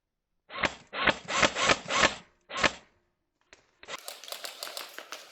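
Airsoft guns firing in short rapid bursts, a run of loud clattering bursts in the first two seconds and another just before three seconds, then a steady fast clatter of fire from about four seconds in.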